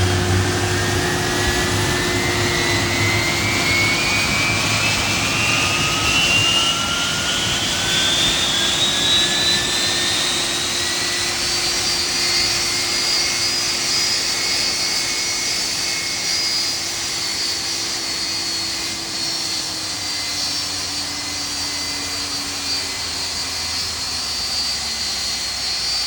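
Rolls-Royce RB211 turbofan on a Boeing 757 spooling up during engine start: a whine rises steadily in pitch for about twelve seconds, then levels off and holds, the engine settling at idle. A lower steady tone underneath drops in pitch near the end.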